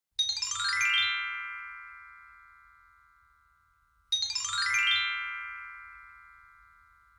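A chime flourish played twice, about four seconds apart: each is a quick downward cascade of bell-like notes that then rings on and fades away over a few seconds.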